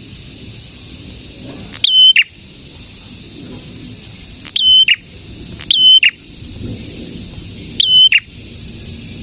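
A prenjak calling in four loud, short, identical phrases a few seconds apart. Each phrase is a quick upward note, a brief held whistle and a sharp downward flick, over a steady high hiss.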